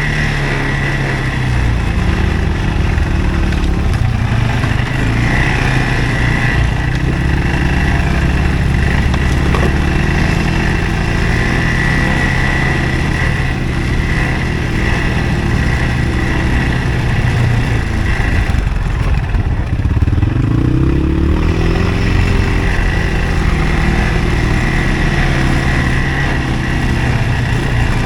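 CFMoto ATV engine running steadily, easing off about two-thirds of the way through and then picking up speed again.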